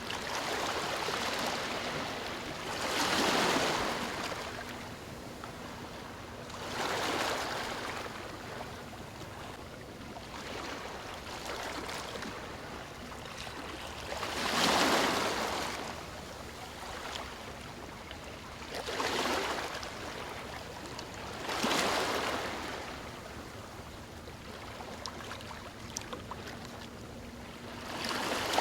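Ocean waves breaking and washing onto shore. Each wave swells up and dies away, about six in all, at uneven gaps of a few seconds, the loudest around the middle.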